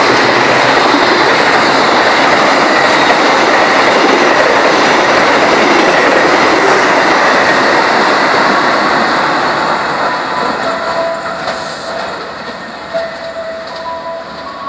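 Argo Dwipangga express train rushing past at speed, a loud wash of wheel and rail noise from the passing carriages. It fades steadily over the last several seconds as the train draws away, with faint thin whining tones from the wheels near the end.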